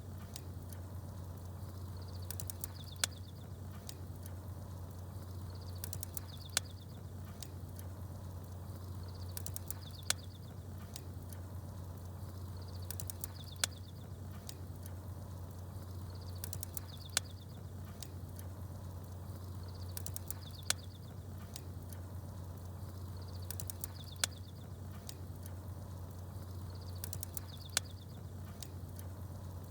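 Bonfire crackling with sharp pops over a steady low rumble, and small birds chirping in short high bursts. The pops and chirps repeat at an even spacing of about three and a half seconds, like a short loop.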